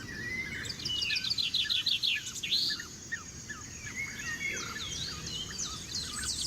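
Several songbirds singing and chirping, with quick runs of repeated notes, over steady low background noise.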